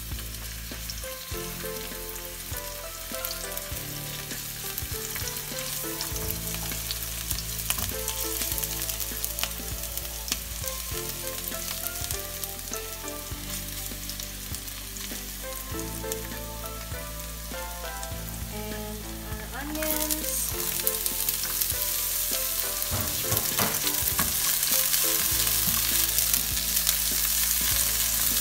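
Minced garlic, then chopped onion, sizzling in olive oil in a nonstick frying pan while a silicone spatula stirs it. The sizzle grows louder about twenty seconds in.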